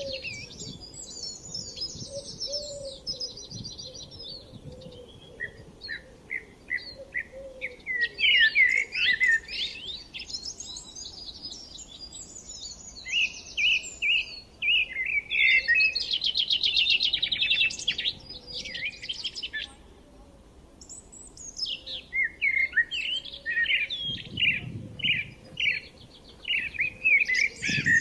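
Several songbirds singing and chirping together: quick repeated chirps, rapid trills and warbling phrases that overlap, with brief lulls around five and twenty seconds in.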